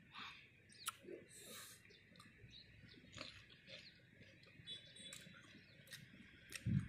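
A person chewing a small fresh green fruit, with soft wet mouth sounds and scattered small clicks. A louder low rumble starts right at the end.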